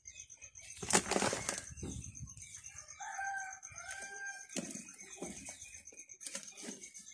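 Rustling and scattered clicks of handling, with a bird calling in two short level notes in the background.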